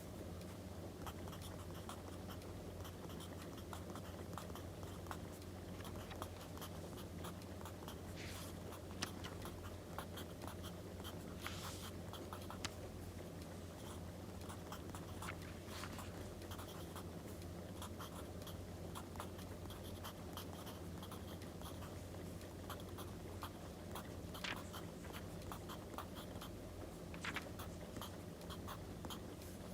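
Writing on paper, scratching steadily, over a soft crackling wood fire with many small pops. Paper rustles briefly twice, about 8 and 12 seconds in.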